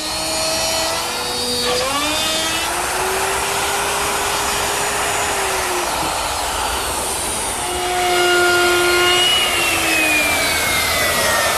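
Router with a guide collar and a 3/8" straight bit cutting a handhold through a jig template, running loud and steady with a whine that shifts in pitch as the bit works through the wood. A falling whine comes near the end.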